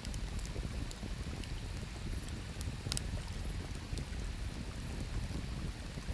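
Wood crackling in a campfire, a few sharp pops standing out, the clearest about three seconds in, over a steady low rush of river water.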